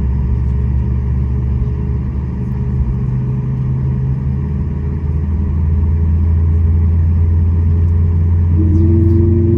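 Cabin rumble of a Boeing 737 MAX 8 with its CFM LEAP-1B engines running, heard from inside the passenger cabin: a steady low drone with several held tones. It grows a little louder about halfway through, and near the end the engine tones step up in pitch.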